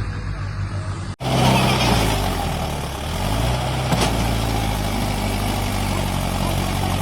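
Heavy diesel vehicle engine running steadily. It drops out for an instant about a second in, and its speed dips and picks up again about three to four seconds in.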